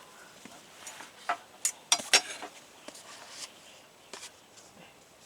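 Camp cookware and utensils being handled: a handful of sharp metallic clinks and knocks, the loudest pair about two seconds in, then a few quieter taps.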